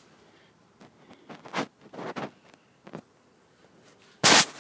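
Faint rustling and scraping, a few short scuffs, with a louder brief burst of noise near the end.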